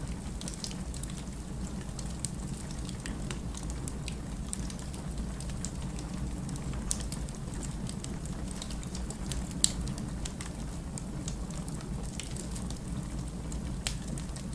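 Wood fire burning in a fireplace, crackling with scattered sharp pops over a steady low rumble; one louder pop comes about two-thirds of the way through.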